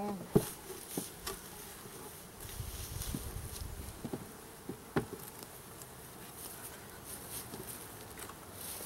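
Honey bees buzzing around an open hive, with a few sharp knocks of wooden hive parts being set in place, the loudest just after the start and another about five seconds in.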